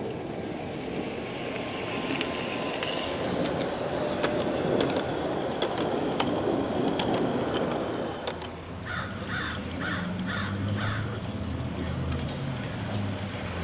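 G-scale model train running around an outdoor garden layout, a low rumble with light clicks of wheels over the track. About eight seconds in, a cricket starts chirping steadily about twice a second, and a short run of repeated bird calls follows.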